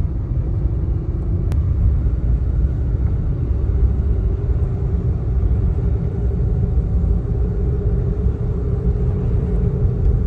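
A car driving, its road and engine noise a steady low rumble, with a faint steady hum joining about three seconds in.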